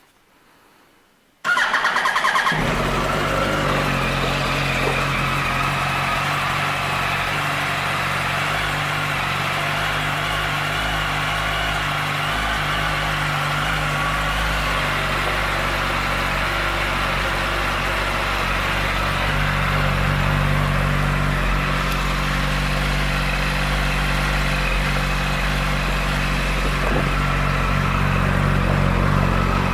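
2008 Yamaha YZF-R1's inline-four engine started on the electric starter about a second and a half in. It catches almost at once and then idles steadily.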